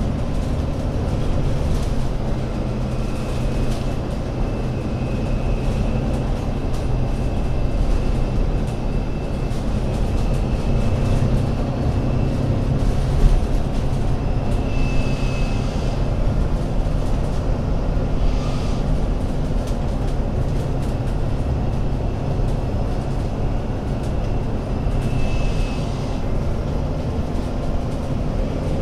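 Alexander Dennis Enviro500 MMC Euro 6 double-decker bus's diesel engine running steadily with a deep drone. A faint high whine comes and goes over it a few times.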